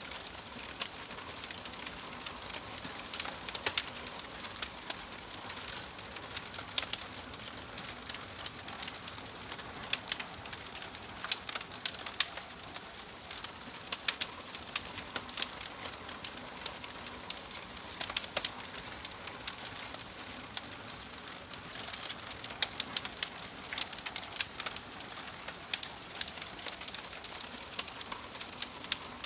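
Wood fire crackling: a steady soft hiss broken by frequent sharp pops and snaps at irregular intervals.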